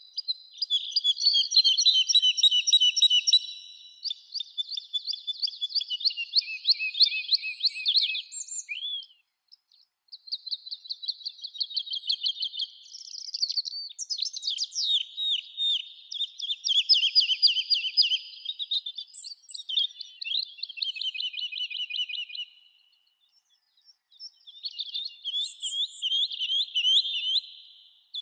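Songbirds singing: long phrases of rapid, high trills and chirps, broken by two short pauses.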